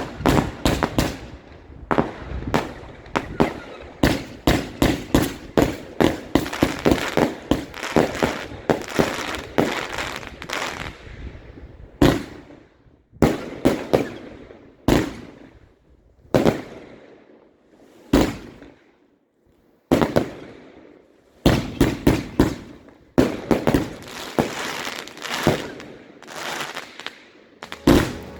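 Fireworks going off: a rapid run of sharp shots and bursts, each fading out with an echoing tail. The volleys thin out to single shots with short quiet gaps around the middle, then come thick and fast again.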